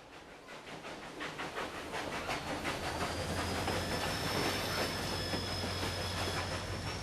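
Passenger train running along the track, its wheels clicking over the rail joints in a regular rhythm under a steady low hum, growing louder over the first couple of seconds. A faint high whine joins in about three seconds in.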